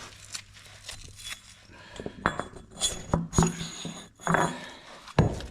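Steel piston ring and tools being handled against the engine block: a few scattered metal clinks and light knocks, one near the middle leaving a brief high ring.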